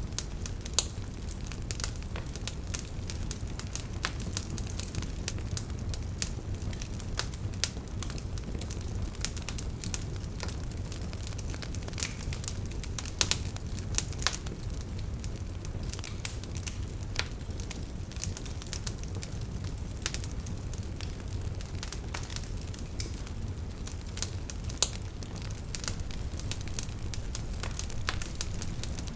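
Campfire burning: a steady low rumble of flames with irregular sharp crackles and pops from the burning firewood, a few louder snaps scattered through.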